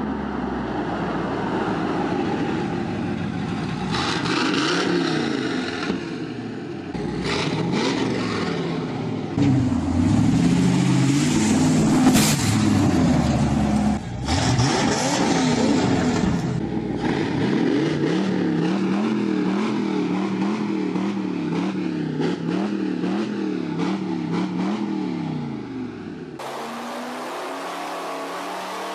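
Devel Sixteen hypercar's engine revving and accelerating in several separate recordings cut together, its pitch sweeping up and down again and again. About two seconds before the end the sound changes to a quieter, steadier run from a large turbocharged engine on a test stand.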